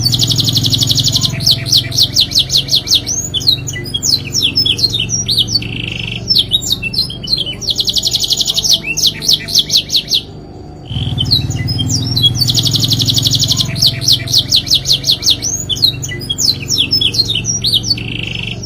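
Domestic canary singing a long, loud song of fast rolling trills and quick chirps. The same song passage starts over about halfway through, over a steady low hum.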